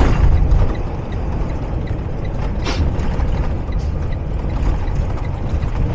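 Low, steady rumble of a semi-truck's engine and road noise heard inside the cab, with a short sharp click about two and a half seconds in.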